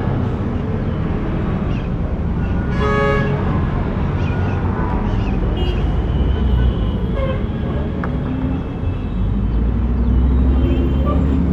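City street traffic with a steady rumble of passing cars and engines. A short car horn toot sounds about three seconds in, and near the end a vehicle engine rises in pitch as it pulls away.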